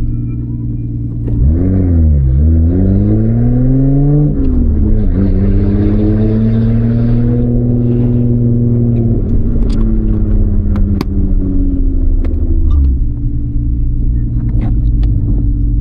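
Car engine revving: its pitch dips and climbs twice in quick succession, then rises slowly, falls away and settles to a steady idle. A few sharp clicks sound over the idle near the end.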